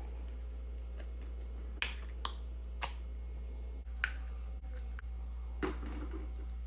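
A handful of short, sharp clicks and taps from small tools and parts being handled during a phone repair, over a steady low hum.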